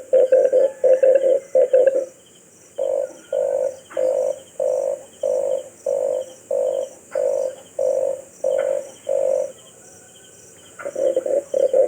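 Red collared dove cooing: a run of rapid, rough coos, then about a dozen slower, evenly spaced coos at roughly two a second, a short pause, and rapid coos again near the end.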